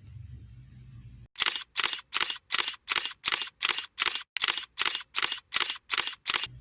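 Camera shutter firing in a rapid burst: about fourteen sharp, evenly spaced clicks at roughly three a second.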